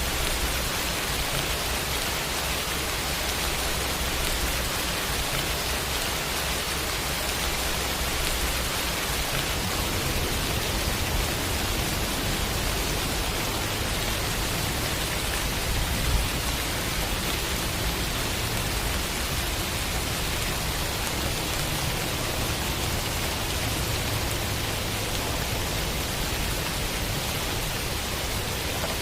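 Steady heavy rain, a continuous even hiss with a low rumble underneath that grows a little stronger about a third of the way in, with one brief louder patter near the middle.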